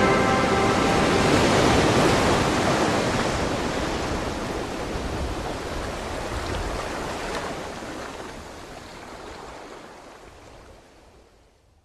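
Steady, even rushing noise, like surf or a synthesized noise wash, fading slowly to silence by the end.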